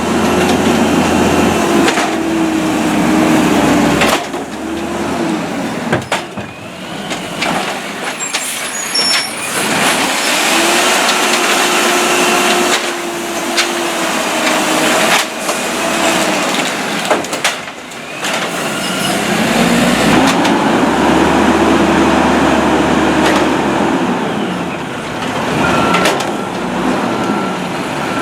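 Peterbilt garbage truck engine revved up and held three times to drive the hydraulics of its automated side-loader arm, the engine pitch climbing, holding, then dropping back each time. Sharp knocks come between the revs.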